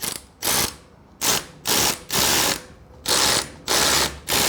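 Socket ratchet wrench worked back and forth in short strokes, its pawl clicking on each swing, about seven strokes in all, as a 16 mm socket turns an engine guard mounting bolt.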